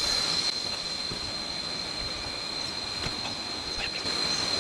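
Cicadas droning in the jungle: one steady, high-pitched whine that holds a single pitch throughout.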